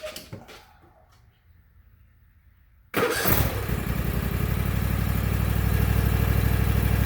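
Craftsman garden tractor's 26 hp Kohler V-twin engine cranking and catching suddenly about three seconds in, then running steadily with an even low pulsing.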